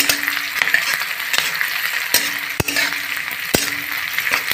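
Chopped onions and green chillies sizzling in hot mustard oil in a kadhai, stirred on high flame with a metal spatula that scrapes and clicks against the pan, with two sharper knocks a little over halfway through.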